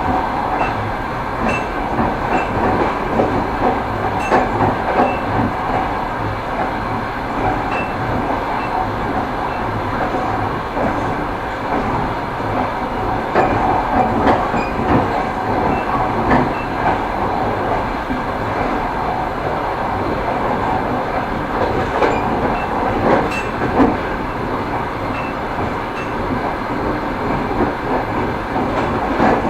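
Railway carriage wheels clattering over rail joints as the train runs at steady speed. The rolling rumble is continuous, and sharper knocks stand out every few seconds, some in quick pairs.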